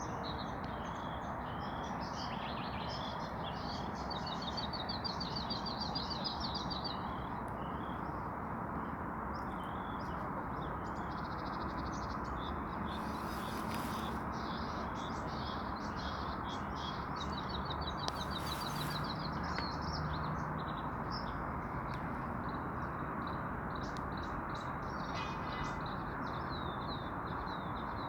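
Small songbirds chirping and calling throughout, with two fast trills, over a steady low rushing background noise.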